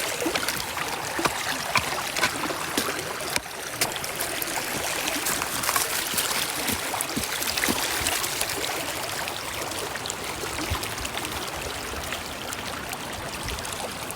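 Flowing brook water, a steady rushing, with scattered small clicks over it in the first few seconds.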